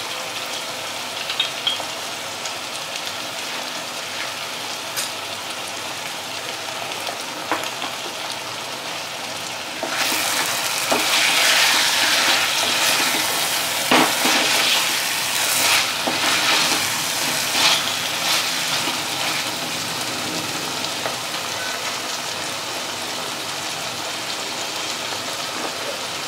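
Chicken pieces frying with spices in a pot, a steady sizzle. About ten seconds in the sizzle grows louder for several seconds as the chicken is stirred, with a few knocks of the spoon against the pot.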